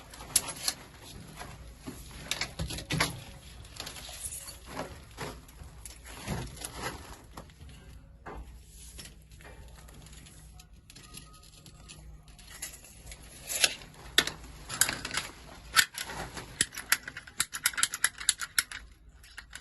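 Irregular sharp clicks and light knocks over a low hum, sparse at first and coming thick and fast in the last few seconds.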